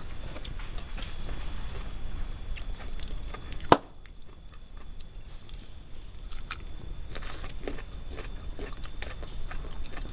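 An insect calling one steady, unbroken high-pitched note over faint forest background noise. A single sharp click about four seconds in, and a few softer clicks after it.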